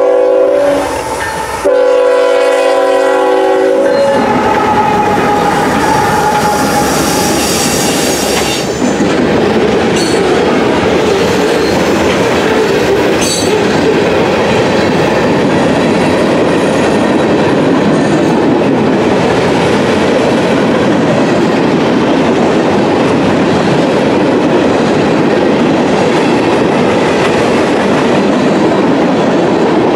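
Freight locomotive horn sounding two blasts as the lead engine passes: a short one, then a longer one of about two seconds. Then the steady rumble and clickety-clack of a long freight train of hopper, box and tank cars rolling past close by.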